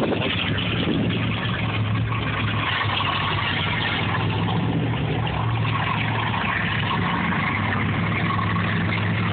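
Truck engine running steadily at an even pitch, with a constant hiss over it.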